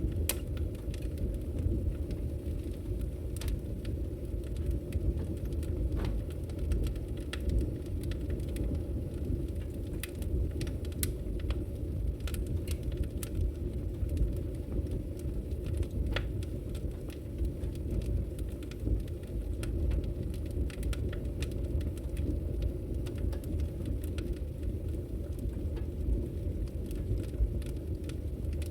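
Wood fire burning in a fireplace: a steady low rumble with irregular sharp crackles and pops throughout.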